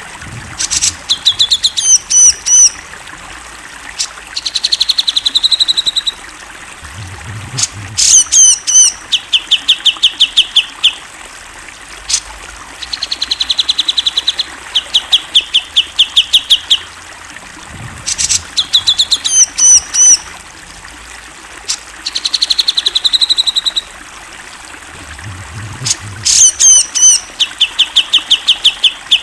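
Cucak jenggot (grey-cheeked bulbul) singing: runs of rapid evenly repeated trilled notes alternate with loud, looping whistled chirps, the phrases recurring every few seconds.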